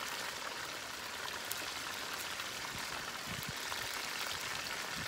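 Chicken wings frying in shallow oil in a pan under a mesh splatter screen: a steady sizzle with scattered small pops.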